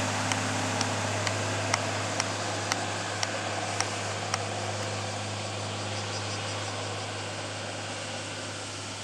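Marine diesel engine of a Yanmar boat running steadily at idle, with a regular sharp tick about twice a second that fades out about halfway through.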